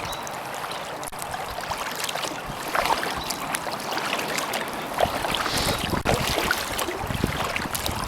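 Kayak paddle strokes: the blade dipping and water splashing and dripping off it. A low rumble comes in about five seconds in.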